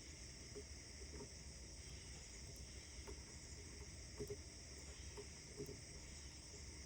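Faint outdoor morning ambience: a steady high hiss with scattered soft clicks.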